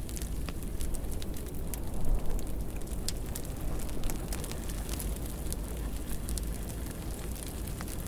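Wood fire in a fireplace crackling, with frequent sharp pops and snaps over a steady low rumble of the burning.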